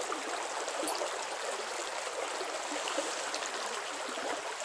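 Fast-flowing stream running steadily, a rushing wash of water high with snowmelt.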